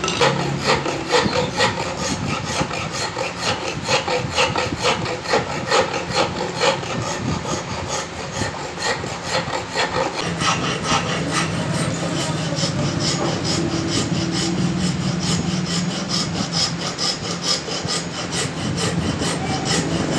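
Quick, repeated back-and-forth rasping strokes of a hand tool, with a low steady hum underneath.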